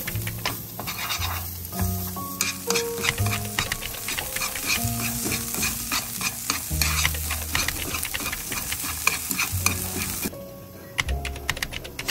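Food frying and sizzling in a pan while a utensil stirs it with frequent clicks and knocks against the pan. The sizzle starts about two seconds in and stops shortly before the end. Background music with low notes plays throughout.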